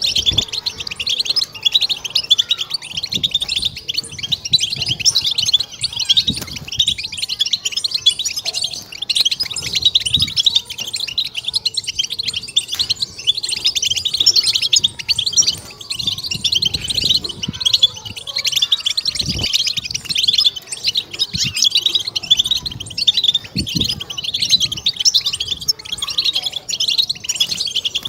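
European goldfinch singing a fast, unbroken twitter of rapid high notes: a 'batbata' song recording used to stimulate captive goldfinches.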